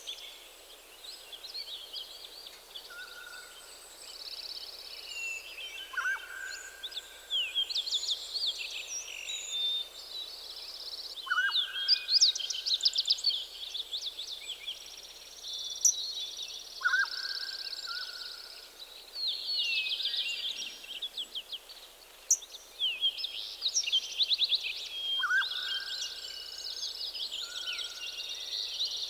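Several songbirds singing at once, overlapping quick chirps and trills, with one lower whistled phrase that repeats every few seconds.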